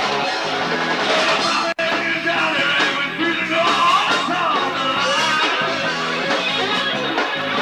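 Live rock band playing: electric guitar over bass and drums, with a wavering melodic line in the middle. The sound cuts out for an instant just under two seconds in.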